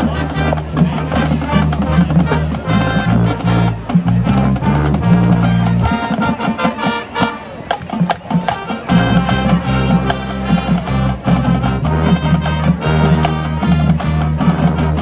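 Marching band playing brass and drums, with sustained low brass notes over a steady drum beat. Around the middle, the low brass drops out for about three seconds while the percussion carries on, then the full band comes back in.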